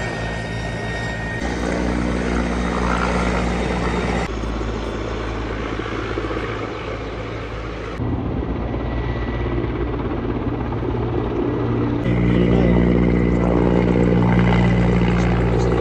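Helicopter rotor and engine running steadily. Abrupt changes in level about a second and a half, four, eight and twelve seconds in mark separate spliced clips, and the last stretch is the loudest.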